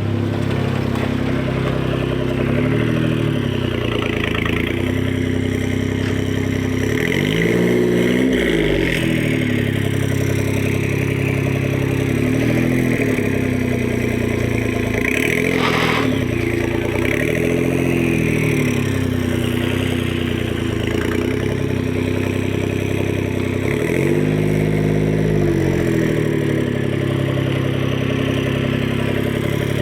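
1999 Suzuki Carry kei truck's small three-cylinder engine running loud through a custom exhaust while driving, its note rising and falling again and again as it accelerates and shifts gears; the owners find it loud enough that it needs another muffler. A single sharp click sounds about halfway through.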